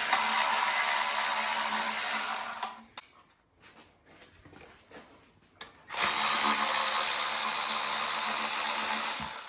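A power tool running in two steady bursts, about two and a half and three and a half seconds long, a hiss with a low hum under it.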